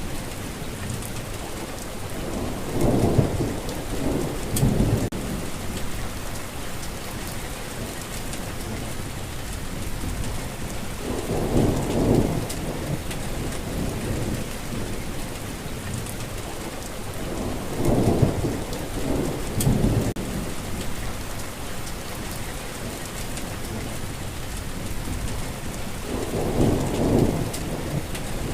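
Steady rain falling, with rumbles of thunder rolling in about six times: swelling and fading over a second or two each, some in close pairs.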